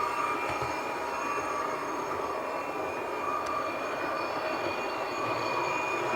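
Hornby FLIRT model train running on the layout's track with a steady electric whine.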